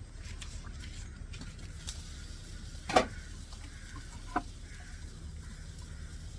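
Steady low hiss and sizzle of eggs cooking under a lid on a small butane camp stove, with a sharp clack about three seconds in and a lighter knock a second and a half later as items are handled.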